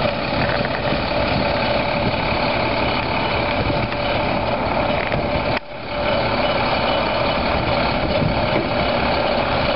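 Heavy truck engine running steadily at idle, with a constant hum and no break except a brief dropout about halfway through.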